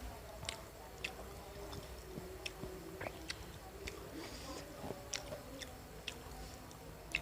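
Close-up chewing of fried street snacks (risoles and meatball-stuffed tofu), with many small, sharp mouth clicks at irregular intervals.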